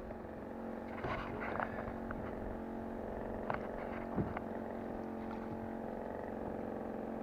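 A boat motor running steadily, a constant hum made of several tones, with a few light knocks in the first half.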